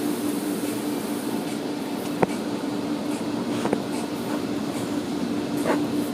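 Car wash machinery running with a steady hum over a hiss, broken by three short sharp knocks.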